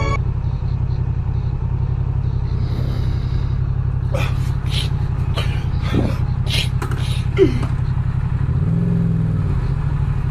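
Yamaha R7's parallel-twin engine running steadily under way, with wind rumble on the microphone. There are a few brief clicks and chirps in the middle, and the engine pitch swells up and falls back once near the end.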